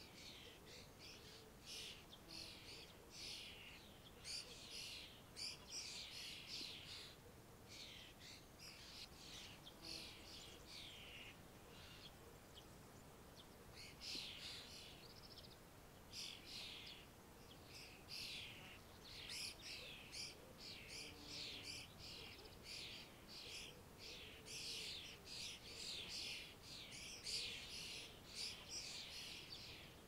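Songbirds chirping and twittering in quick, high calls, one after another with only brief pauses, faint against a quiet rural background.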